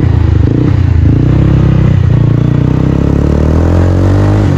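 Bajaj Pulsar's single-cylinder engine, breathing through a newly fitted aftermarket exhaust, running loudly. From about halfway it revs up, its pitch climbing steadily, then drops off right at the end.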